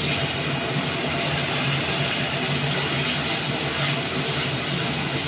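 Wet ground masala paste of ginger, garlic, chilli, tomato and ground spices sizzling loudly as it is poured into hot oil and fried onions in a metal kadai. The hiss starts the moment the paste hits the oil and keeps up steadily.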